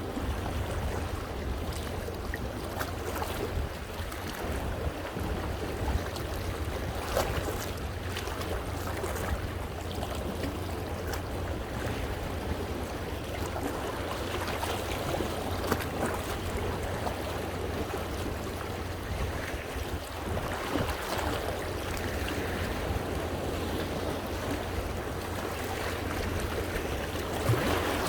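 Sea waves washing in over shoreline rocks, water sloshing and splashing steadily with small splashes now and then. A low rumble of wind on the microphone runs underneath.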